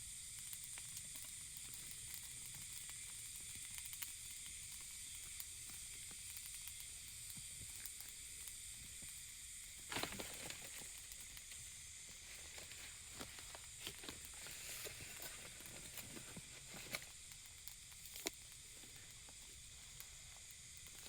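A steady sizzling hiss with scattered small clicks and pops. A sharper knock comes about ten seconds in and another near the end.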